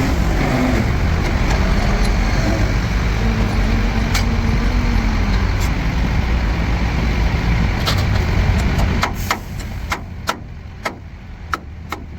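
Heavy diesel machinery engine running steadily, then dropping away about nine seconds in. A quick string of sharp knocks follows, about eight in three seconds.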